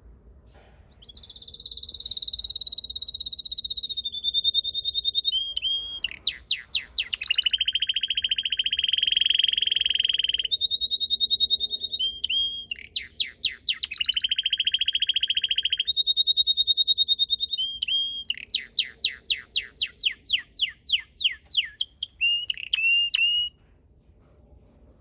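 A red canary singing one long song of sustained high trills, buzzy rolls and runs of rapid sweeping notes. The song stops about a second and a half before the end.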